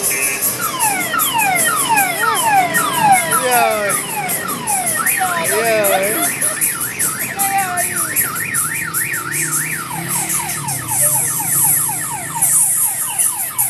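Electronic siren cycling through car-alarm patterns: repeated falling whoops about two or three a second, then a fast up-and-down warble from about five seconds in, then faster falling chirps near the end.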